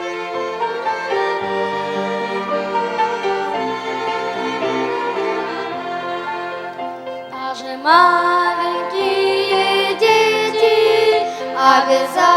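Church orchestra of violins and wind instruments playing the instrumental introduction to a hymn, in held, sustained notes. It grows louder and fuller about eight seconds in.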